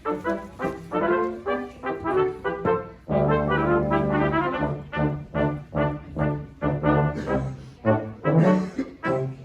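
Brass quartet playing a brisk passage of short, detached notes. About three seconds in, a low held note enters beneath them and sounds for about two seconds.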